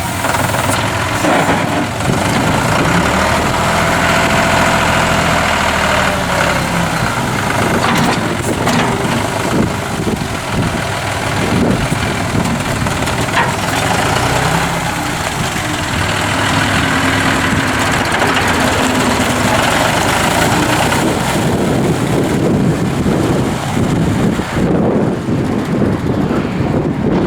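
2007 John Deere 5105's three-cylinder diesel engine running, its pitch rising and falling a few seconds in.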